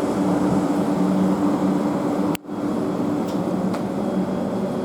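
South Western Railway Class 444 electric train pulling away past the platform: a steady hum with a rumble. The sound cuts out for a moment a little past halfway, then carries on.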